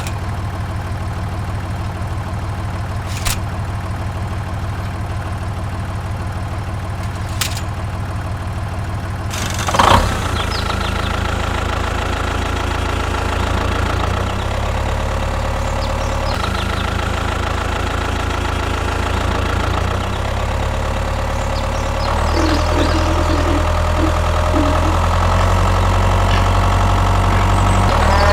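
Tractor engine idling steadily, with a few sharp clicks early and a loud thump about ten seconds in; the engine note shifts in level a few times.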